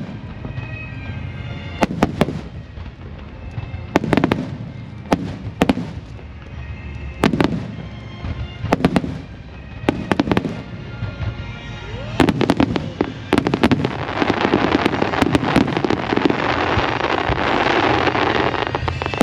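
Aerial fireworks shells bursting with sharp bangs every second or two, then a dense, continuous crackle of many small bursts over the last five seconds.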